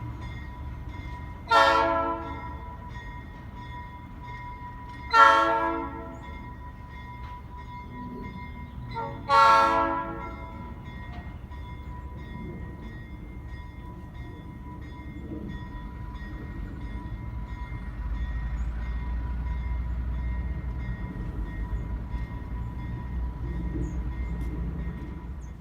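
Diesel switcher's air horn sounding three short blasts, each about a second long and a few seconds apart. Three short blasts are the standard signal that the train is about to back up. From about two-thirds of the way in, the Alco S-6's six-cylinder diesel rumbles louder and steady as it works.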